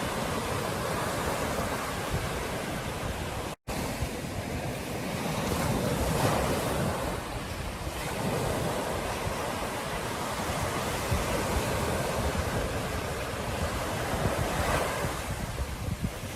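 Ocean surf breaking on a beach, an even wash of noise that swells as waves come in, with wind on the microphone. The sound cuts out completely for a split second a few seconds in.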